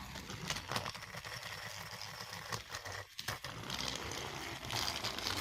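Battery-powered motorized toy train running along plastic track with a faint steady rattle and small clicks, which drop out briefly about three seconds in.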